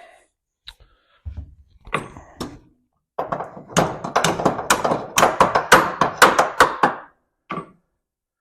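Hammer blows on metal: a few single knocks, then a fast run of strikes, about four a second, for about four seconds.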